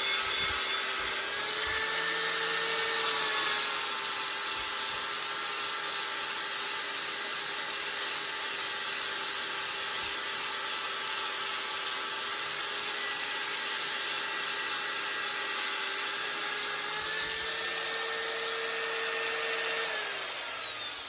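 Angle grinder with a flap disc grinding the pitted steel of an axe head: a steady motor whine over a grinding hiss. The pitch rises about two seconds in and again near the end as the disc comes off the steel and the motor speeds up, then falls as the grinder is switched off and winds down.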